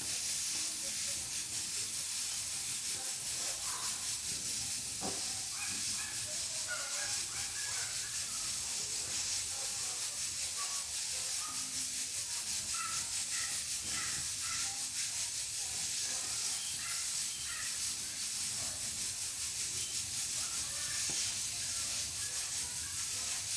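Pressure cooker at pressure on a wood-burning stove, its valve venting steam in a steady hiss. Faint small scattered sounds lie under it, with a single click about five seconds in.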